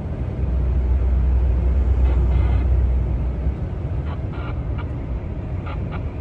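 Heavy truck driving, heard from inside the cab: a steady deep engine drone with road noise that eases off about three and a half seconds in.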